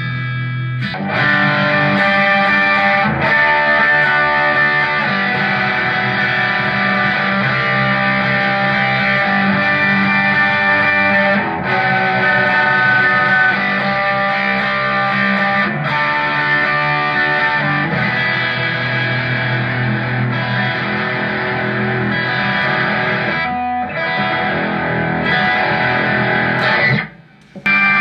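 Squier electric guitar played through an M-Vave MK-300 multi-effects unit on a distorted preset, dry with no backing. The playing breaks off for about half a second near the end, then resumes.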